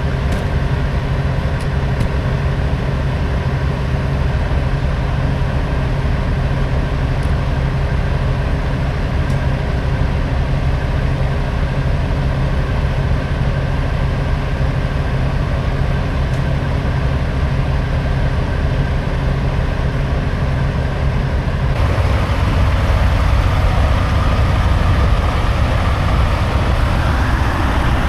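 Semi-truck's diesel engine running with a steady low hum. About 22 seconds in, the sound broadens and grows a little louder, and near the end a whine rises in pitch.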